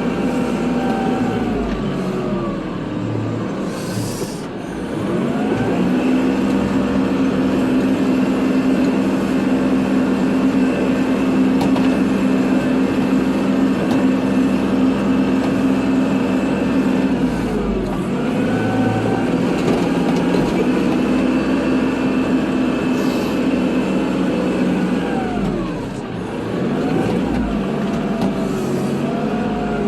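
Kubota tractor's diesel engine running under load while plowing snow. It holds a steady pitch for long stretches, and three times (about 4, 18 and 26 seconds in) the revs dip and then climb back up.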